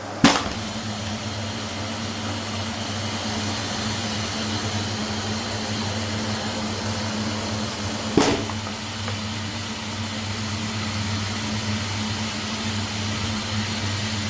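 Canister vacuum cleaner running steadily with its motor hum and suction hiss. Two sharp knocks come through, one just after the start and one about eight seconds in.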